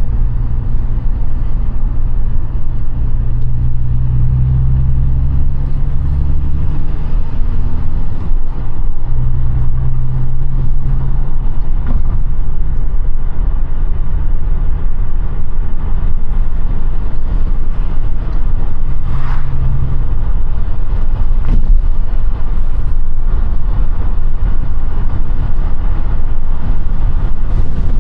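Audi A5 (8T) driving on the road: a steady low engine note over a heavy road-and-wind rumble. The engine note breaks off briefly about eight seconds in, then picks up again.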